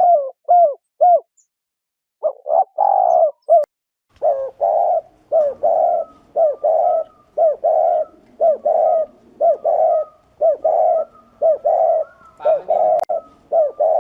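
Spotted dove giving its excited 'gù' bow-coo: short low coos in quick runs, a pause of about a second near the start, then about two coos a second without a break. This is the call that rouses male doves, used as a lure.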